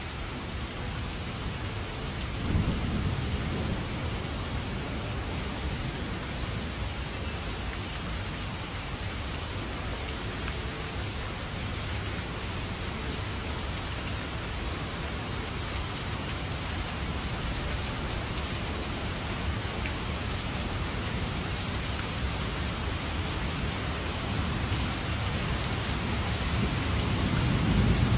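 Heavy rain falling steadily, with two low rumbles of thunder, one about three seconds in and one near the end.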